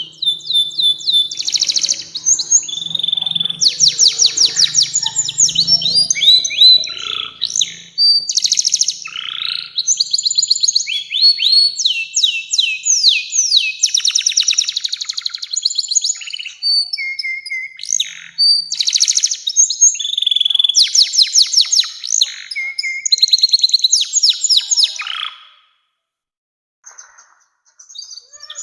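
Domestic canary singing a long song of rapid trills and rolling phrases, high-pitched. The song breaks off about 25 seconds in, leaving a few faint notes before it starts up again near the end.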